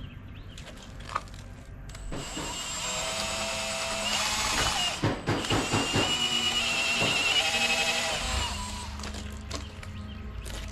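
Power drill boring a pilot hole through a house wall. It starts about two seconds in, its motor whine eases off and picks up several times midway, and it stops near the end.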